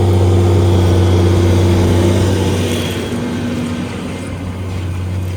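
Vehicle engine running at a steady speed with a loud, even hum, easing off slightly about two and a half seconds in.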